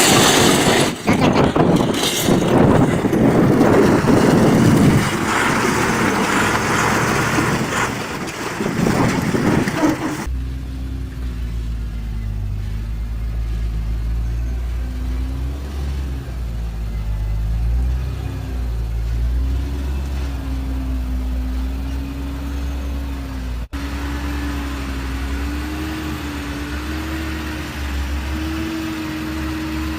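Vehicle sounds: loud rushing road noise with a couple of sharp knocks near the start, then, about ten seconds in, an abrupt change to a steady low engine hum with a slowly wavering tone.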